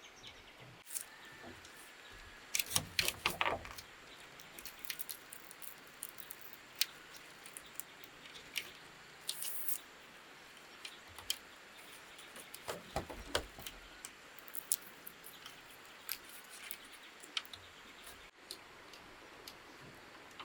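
Scattered clicks, taps and knocks, with a loud cluster of knocks about three seconds in and another around thirteen seconds, and a brief hiss near the middle.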